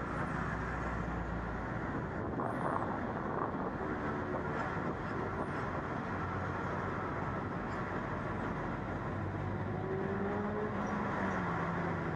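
Diesel locomotive hauling a passenger train, running with a steady rumble as it approaches along the track. Near the end, as it draws level and passes, its low engine tone drops in pitch.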